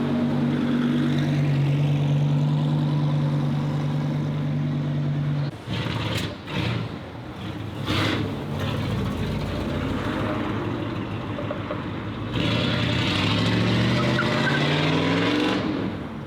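Lamborghini Sesto Elemento's V10 engine running at a steady idle on a cold start. About five seconds in the idle breaks off with a few sharp knocks, and later the engine revs with a rising pitch for a few seconds.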